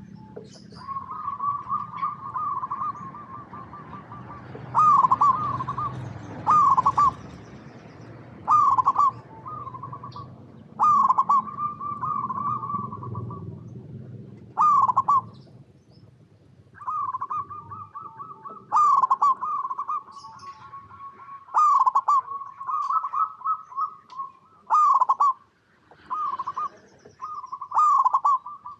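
Zebra dove cooing: a run of rolling, trilled coo phrases repeating every second or two, some drawn out and some short. Short, faint high chirps from another small bird sound at intervals.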